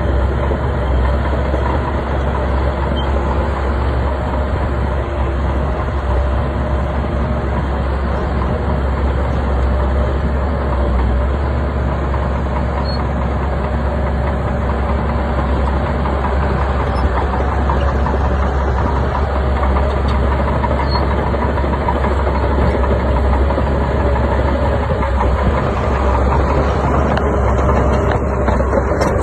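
Heavy diesel engine of a Shantui crawler bulldozer running steadily while it works.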